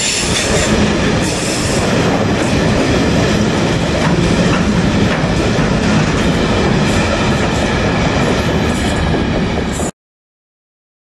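A rake of bogie ballast hopper wagons rolling past on jointed track: continuous wheel-on-rail rumble with occasional clicks. It cuts off abruptly near the end.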